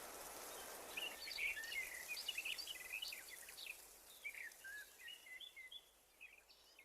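Faint chirping and twittering of small birds, a busy run of short calls starting about a second in, over a light background hiss.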